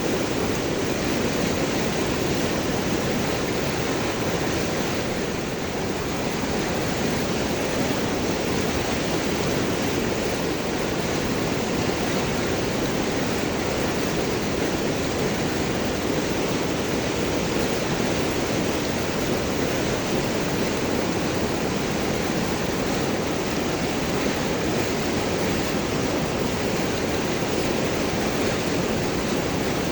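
River water rushing and gurgling over and around large rocks, a steady full rush with no breaks.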